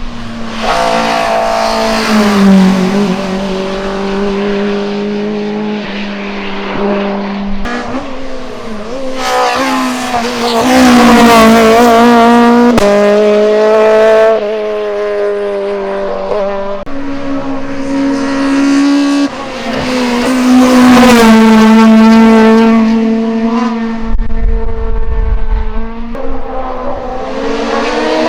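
Racing cars at full throttle on a hillclimb course, one after another, engines revving hard. Each engine note climbs and drops back again and again as the gears change.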